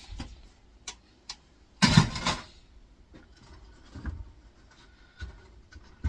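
Steel parts of a dismantled air fryer being handled and put down: a couple of light clicks, then a louder clatter about two seconds in, and a few softer knocks later on.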